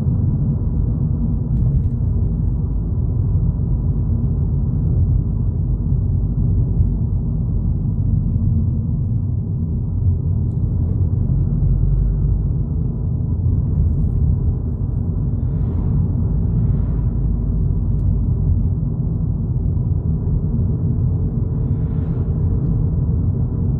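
Steady low rumble of road and engine noise inside a Volkswagen Polo GTI's cabin while cruising.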